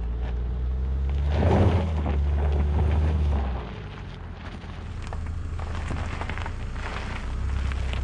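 2022 Infiniti QX55's turbocharged four-cylinder pulling at about half throttle up a loose dirt slope, the car struggling for traction, with tyres crunching over gravel. A little past three seconds in, the engine grows fainter as the car climbs away, leaving a noisy hiss and scattered gravel clicks.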